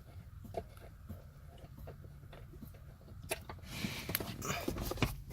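Scattered light clicks and knocks of hand tools and metal parts being handled, busier and louder in the last two seconds.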